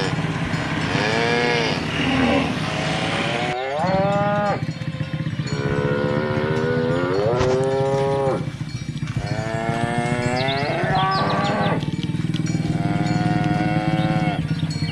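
Cattle mooing: several long, drawn-out calls from different cows one after another, some bending up in pitch and some overlapping, over a steady low hum.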